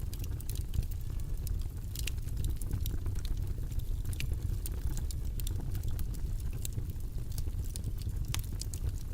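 Steady low rumble of white noise with irregular light clicks and taps on top, several a second, typical of typing on a keyboard.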